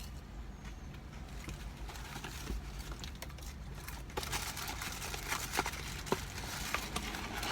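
Paper food packaging rustling and crinkling as it is handled, with scattered sharp clicks, growing busier about halfway through, over a steady low rumble.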